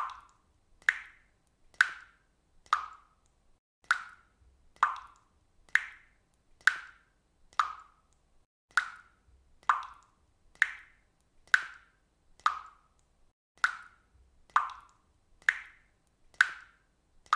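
Water dripping from a faucet, one drop falling about every second in a steady, even rhythm, each landing as a short plop.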